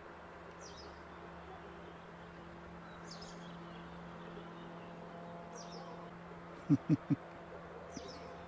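A bird calling outdoors, repeating one short high call about every two and a half seconds over a steady low hum. About two thirds of the way in come three quick, loud, low sounds in a row.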